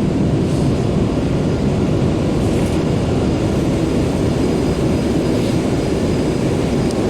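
MBTA Blue Line Siemens 700-series subway car running between stations, heard from inside the car: a steady rumble of wheels on rail and running gear.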